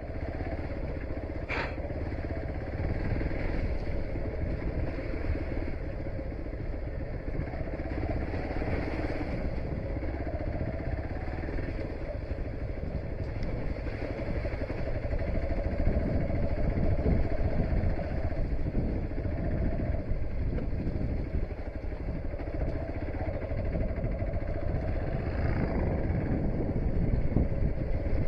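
Hero XPulse single-cylinder dual-sport motorcycle running under way over a rough off-road track, its steady engine note blended with low rumbling noise, with a single sharp knock about a second and a half in.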